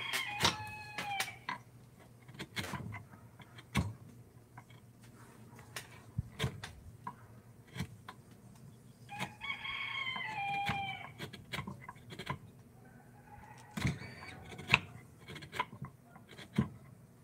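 A rooster crows twice, once at the start and again about nine seconds in, each crow ending in a falling tail. Sharp taps and clicks come irregularly between the crows over a steady low hum.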